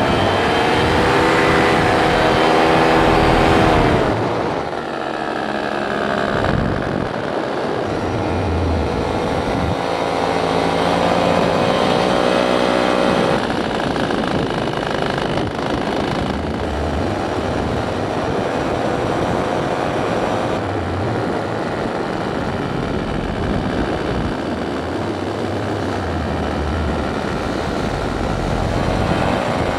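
Paramotor engine and propeller running, its pitch rising and falling as the throttle changes, loudest for the first few seconds and then easing off.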